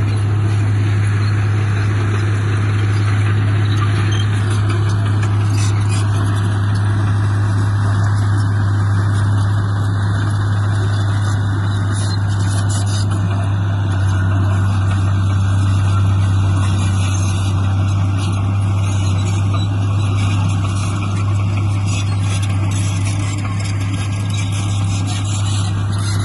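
Diesel engine of heavy earthmoving machinery running steadily, with a constant low hum and no change in pace.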